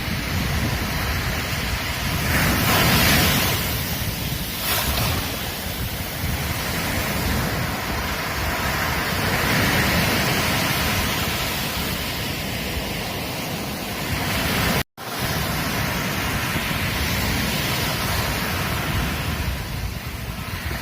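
Ocean surf on a beach, waves breaking and washing in, the rush of noise swelling and easing several times. About three-quarters of the way through, the sound drops out completely for a split second.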